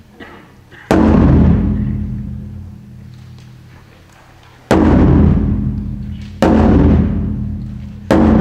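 Taiko drum struck hard four times at uneven, widely spaced intervals, each heavy hit ringing out and fading before the next.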